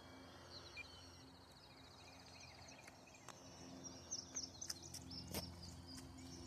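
Faint open-air ambience: a small bird's rapid trill for a couple of seconds, then a few short high chirps, over a low steady hum, with a few sharp clicks in the second half.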